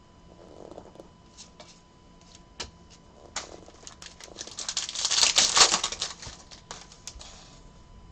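Trading cards and foil pack wrappers being handled: scattered clicks and taps, then a few seconds of dense crinkling and rustling, loudest a little past the middle.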